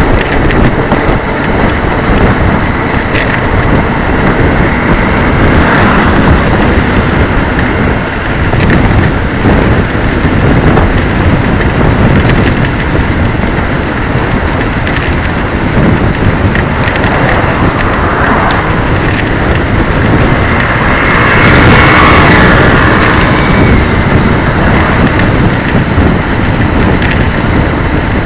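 Loud, steady rush of wind over the microphone of a camera on a moving bicycle, mixed with the running of a 150cc leaning-trike motorcycle's engine.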